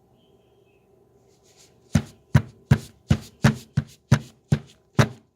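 Tapioca starch being packed down tightly in a paper bag inside a box: a regular run of thuds, about two or three a second, starting about two seconds in.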